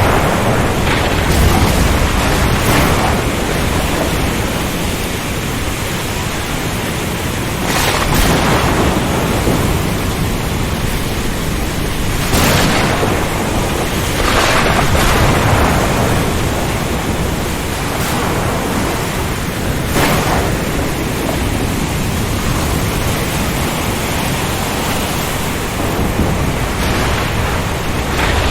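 Storm at sea: dense, steady rain and strong wind with a low rumble underneath, swelling louder every few seconds.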